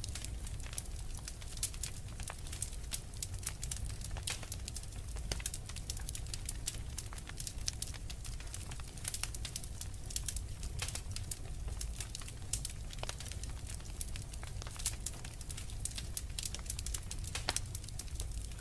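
Wood fire burning in a fireplace, with frequent irregular crackles and pops over a steady low rumble of the flames.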